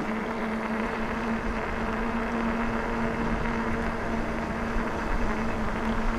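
Electric bike on the move: the motor gives a steady hum under a constant rush of wind and tyre noise.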